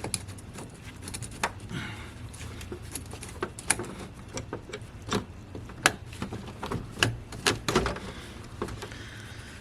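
Irregular light clicks and knocks of a flathead screwdriver and hands working plastic clips and parts in a car's engine bay, as a clip is pried loose and a pipe lifted.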